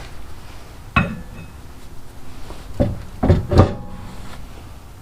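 Metal clanks as a replacement rear brake caliper is slid onto the rotor and its mounting: one sharp clank about a second in, then three more close together a little past the middle, the last loudest, each with a brief metallic ring.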